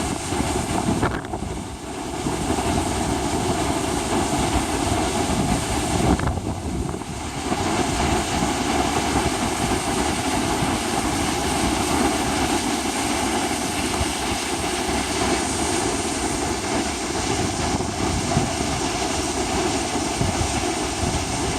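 Ocean storm noise: wind and sea making a loud, steady rushing rumble, with two brief lulls, one about a second in and another around six seconds in.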